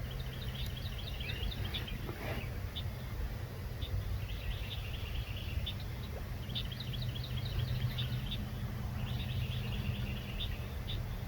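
Small birds calling in runs of short, quick, high chirps and trills, with a steady low rumble underneath.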